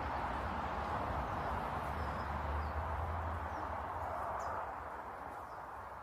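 Faint, short high chirps of small birds scattered over a steady rushing background noise, with a low rumble that fades away about four and a half seconds in.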